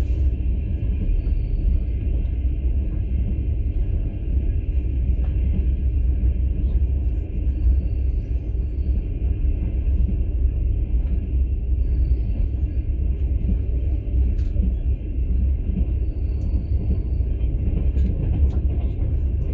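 Steady low rumble of a moving passenger train, heard from inside a platzkart (open-plan sleeper) carriage. A faint short high tone comes back about every four seconds.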